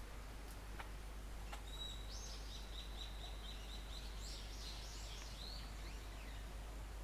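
Songbird singing: a high held note with a quick run of repeated notes over it, lasting about four and a half seconds. Two faint clicks come just before the song.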